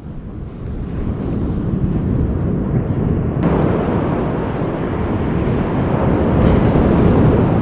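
Wind rumbling on the microphone outdoors, swelling louder over several seconds, with a single sharp click about three and a half seconds in.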